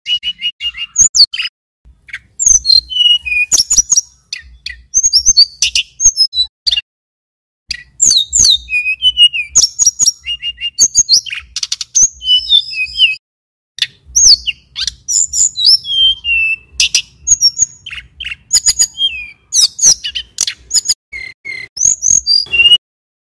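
Male tledekan gunung (sulingan gunung) singing: long, rapid runs of high whistles, trills and slurred notes, broken by short pauses about seven and thirteen seconds in.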